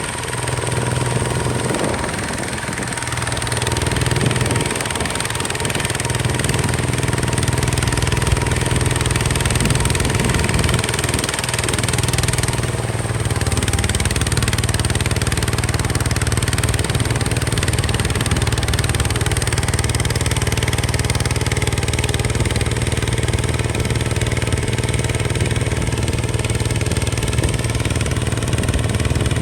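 Diesel engine of a Hinota HG Gold 155 DI tractor running. Its note shifts up and down a few times in the first dozen seconds, then holds steady.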